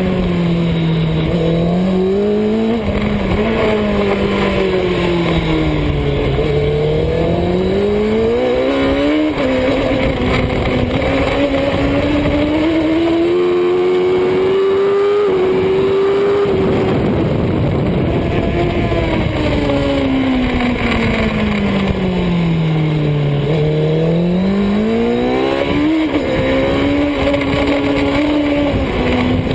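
Superbike engine running hard on track, its pitch climbing and falling again and again as it accelerates and slows, with a longer steady high stretch in the middle, over a constant rush of wind noise.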